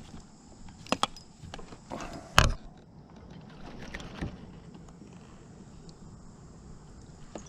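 A few scattered knocks and rattles of fishing gear being handled in a kayak, the loudest thump about two and a half seconds in, over a faint steady outdoor background.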